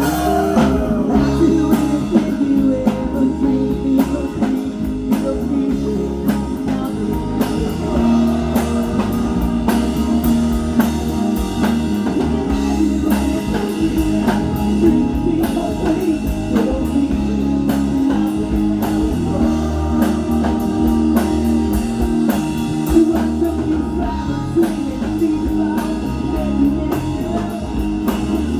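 A live rock band playing, with electric guitar and drum kit and some singing.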